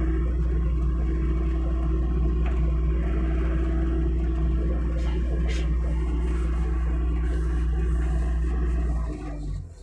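Hitachi mini excavator's engine running at high revs with a steady hum, then dropping away sharply about nine seconds in.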